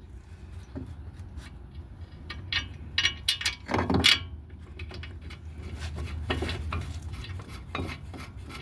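Metal brake parts and hand tools clinking, tapping and knocking as brake caliper hardware is handled, with a louder cluster of clanks about four seconds in, over a low steady hum.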